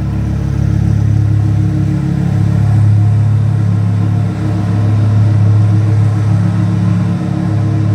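Twin-turbocharged Lamborghini Huracan LP 580-2 V10 running loud at a steady engine speed, a deep, even drone with only slight changes in loudness.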